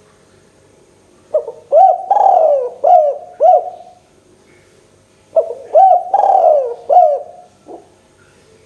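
Spotted dove (tekukur) cooing: two song phrases of a few arched, falling coos each, the middle coo longer and slurred, about a second apart.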